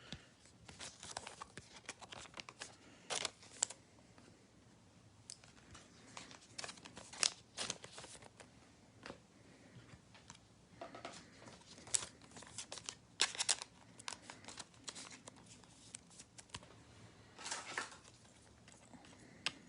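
Trading cards and their foil pack wrappers being handled: irregular rustling and crinkling with small clicks, some rustles lasting a second or so.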